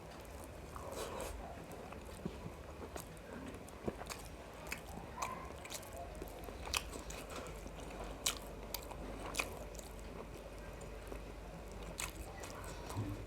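A person eating biryani close to the microphone: wet chewing with irregular sharp mouth clicks and small crunches.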